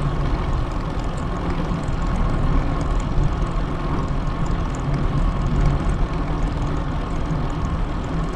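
Wind buffeting a handlebar-mounted GoPro Hero 8's microphone while riding a bicycle: a steady, loud low rumble and rush with no letup.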